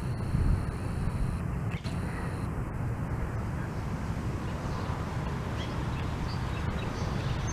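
Outdoor ambience of a steady low rumble like wind on the microphone, with a few faint bird calls over it.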